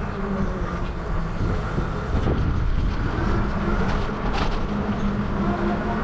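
Wind buffeting the microphone and steady rolling rumble while riding a bicycle.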